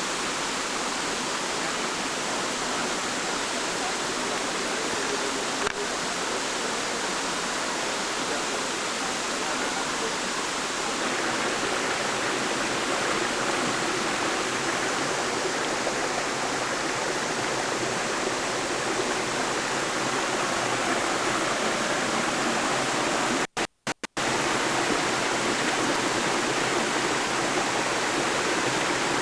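Steady rush of falling water from a waterfall, an even hiss with no pauses. The sound cuts out completely a few times for an instant about 24 seconds in.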